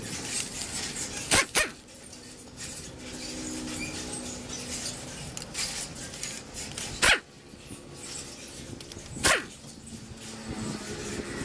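A dog barking: two quick barks about a second and a half in, then single barks near seven and nine seconds.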